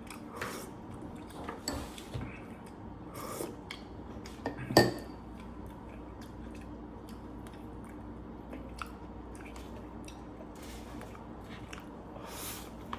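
Light, scattered clinks and taps of plates and utensils at a meal over a steady low hum, with one louder knock about five seconds in.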